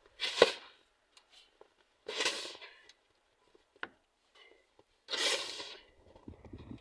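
Snow shovel scooping and tossing snow, three strokes about two and a half seconds apart, each a short crunching scrape, with a small click between the second and third.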